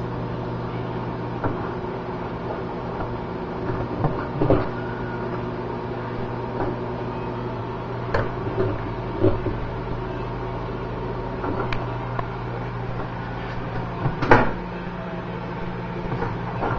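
Microwave oven running with a steady hum, with a few short knocks and clicks over it, the loudest about fourteen seconds in.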